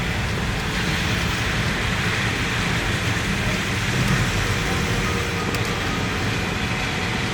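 Steady rain hiss with a low rumble of street traffic underneath.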